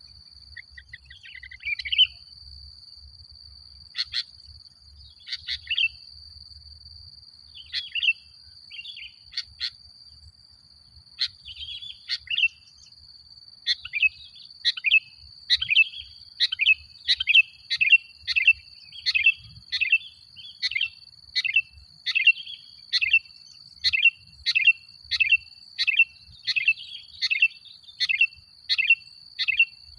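Sooty-headed bulbul (kutilang) singing: short chirping notes, scattered at first, then about halfway through settling into a steady run of about two notes a second.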